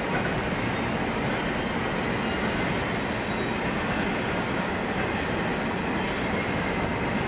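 CSX intermodal freight train's container and trailer cars rolling past, a steady noise of wheels on rails.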